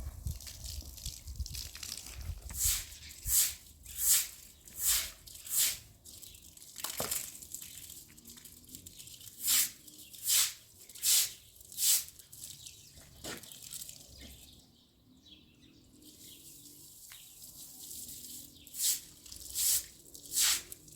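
Broom sweeping wet ground: brisk swishing strokes, a little under a second apart, in three runs of four or five strokes with pauses between.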